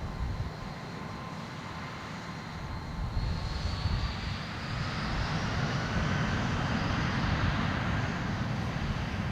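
Jet airliner's turbofan engines at takeoff power: a low rumble with a thin whine that rises in pitch, growing louder from about three seconds in.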